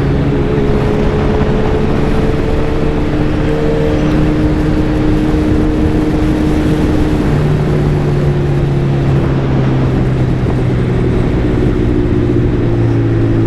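Suzuki Hayabusa's 1340 cc inline-four running at a steady cruise under a constant wind rush. The engine note holds level, then eases gradually lower through the second half.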